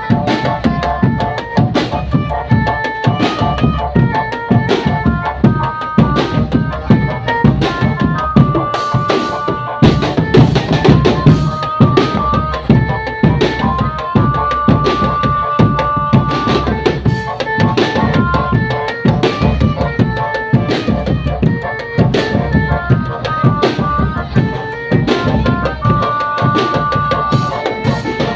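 Indonesian marching drum band playing: fast, steady snare and bass drum beats with a stepped melody of held notes on top.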